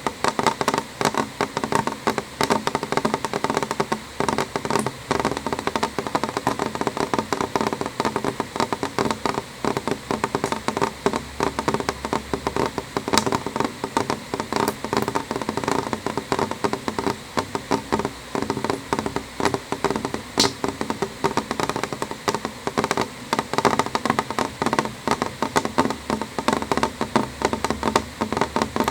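Rain on a window pane: a dense, steady run of drops tapping the glass, with a few louder single drops now and then.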